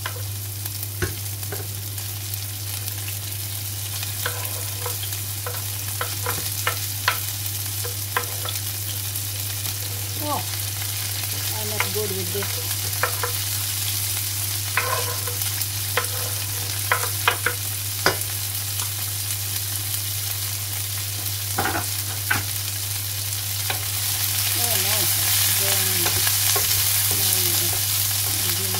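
Asparagus pieces and finely chopped ginger sizzling in a hot frying pan as they are pushed in off a wooden cutting board and stirred with a wooden spatula, with many short knocks and scrapes of the spatula on board and pan. The sizzle grows louder about 24 seconds in, over a steady low hum.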